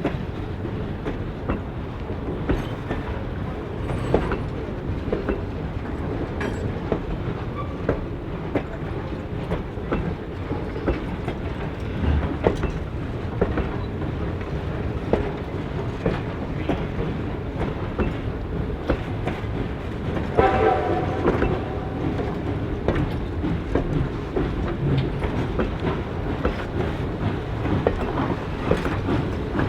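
Reading & Northern 425, a 4-6-2 steam locomotive, running with its train: a steady rumble with scattered clicks of wheels over the rail joints. About twenty seconds in comes one chime steam-whistle blast of about a second and a half.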